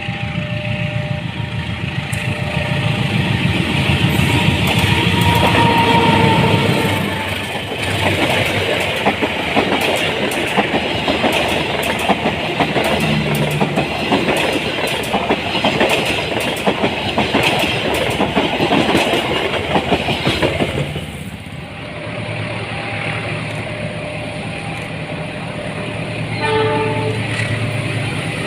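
A train passing close by, its wheels clattering over the rail joints in a dense, rapid clicking that stops abruptly about three-quarters of the way through. A horn sounds briefly near the start and again near the end.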